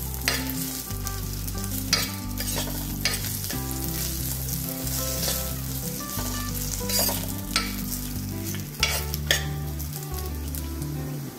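Tom yum aromatics (lemongrass, garlic, galangal and kaffir lime leaves) sizzling as they fry in a pot, stirred with a metal ladle. Sharp clinks and scrapes of the ladle against the pot come every second or two and stand out above the steady sizzle.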